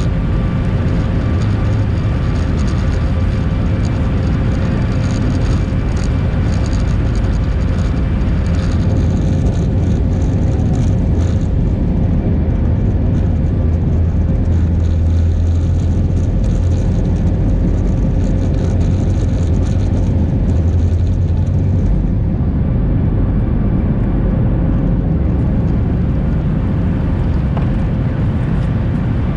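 Boeing 737 airliner heard from inside the passenger cabin in flight: a steady, loud rumble of engine and airflow noise with a constant whine running through it.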